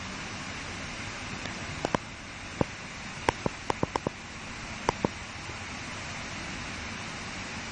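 Steady hiss with a scatter of about ten short, sharp clicks between about two and five seconds in, several in quick succession near the middle.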